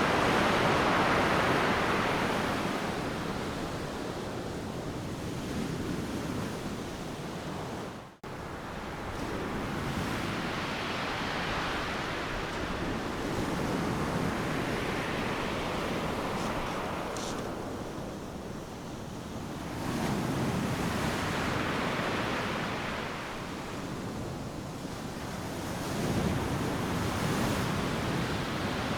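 Ocean surf: waves breaking on a beach one after another, each a rushing hiss that swells and fades, with fresh breaks about twelve, twenty and twenty-six seconds in. The sound cuts out for an instant about eight seconds in.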